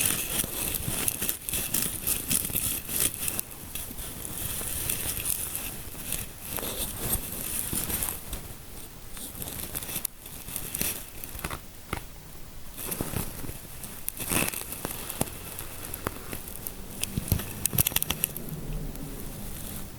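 Close-miked scalp-massage scratching and rubbing: an irregular crinkly crackle that comes and goes, with a few sharper crackles near the end.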